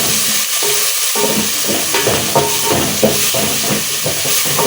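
Food frying in a pot with a steady sizzle, joined from about a second in by irregular stirring and scraping strokes.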